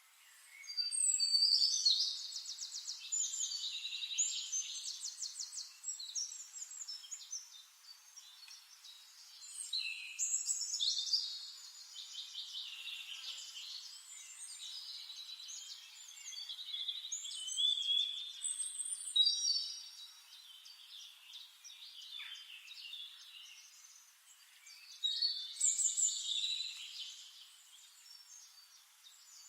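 Songbirds singing in four bouts of high chirps and fast trills, each a few seconds long, with quieter twittering between them.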